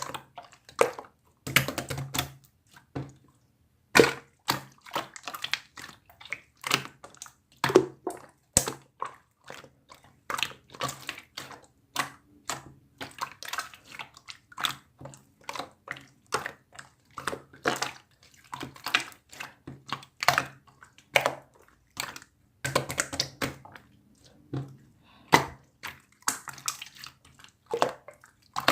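Clear slime being squeezed and pressed by hand, making a run of irregular wet pops and clicks, about one or two a second.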